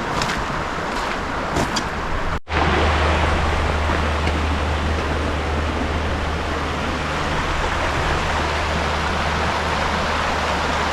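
Steady outdoor rushing noise with a low rumble underneath. It cuts out for a moment about two and a half seconds in, then comes back slightly louder.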